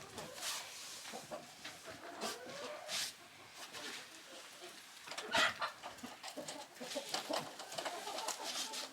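Chickens clucking, mixed with scattered small clicks and rustles.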